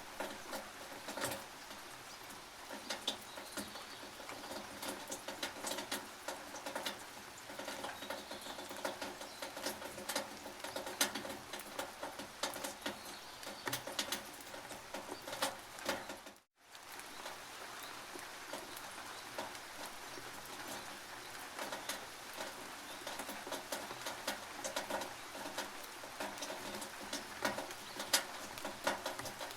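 Rain dripping on a tin roof: a steady hiss dotted with many irregular, sharp drip taps on the metal. The sound cuts out for a split second about halfway through.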